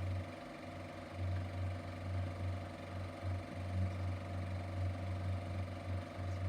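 Elmo super 8mm sound projector running with a steady low hum from its sound system, the film's soundtrack having ended.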